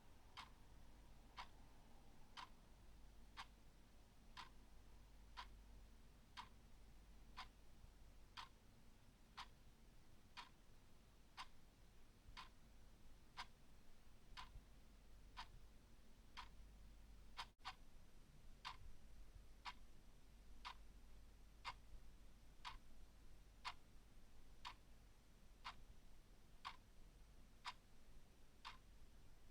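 Clock ticking faintly and evenly, about one tick a second.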